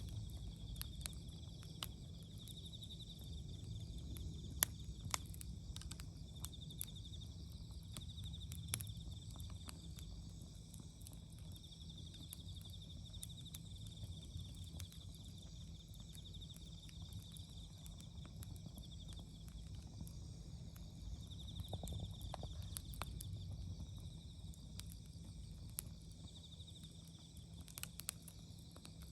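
Wood fire crackling with scattered sharp pops, the loudest a few seconds in and near the end, over steady pulsing chirps of autumn insects.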